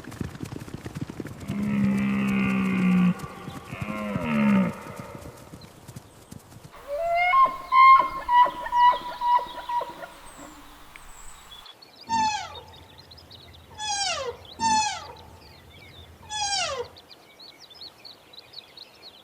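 A string of separate animal recordings: a cow's low moo that falls in pitch near the end, then a run of about six short, loud pitched calls, then four high calls that each slide steeply downward.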